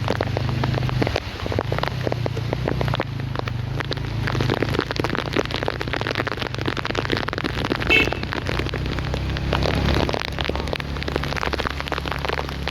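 Rain falling steadily, a dense patter of drops hitting surfaces, over a steady low hum. A brief high squeak about eight seconds in.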